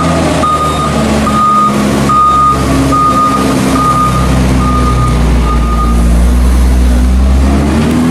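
A farm machine's reversing alarm beeping steadily, about once every 0.8 seconds, then stopping about six seconds in, over a diesel engine running; the engine grows louder from about four seconds in until near the end.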